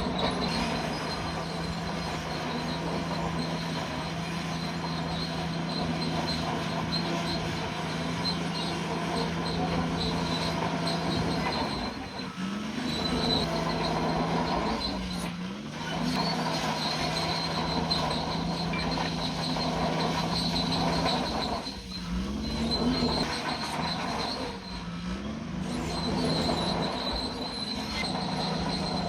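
Bulldozer's diesel engine running under load while its steel tracks squeal. The engine note dips and recovers several times.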